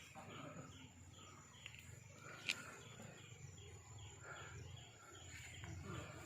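Faint outdoor ambience: a small animal's high chirp repeating a little more than twice a second over a low rumble, with one sharp click about two and a half seconds in.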